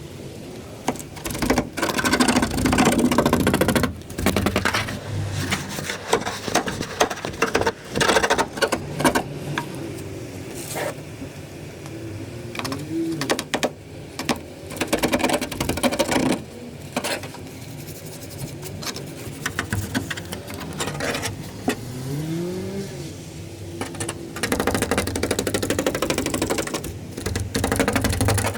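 Hands-on repair work: repeated knocks, clicks and stretches of rubbing or scraping, broken twice by a short rising whine.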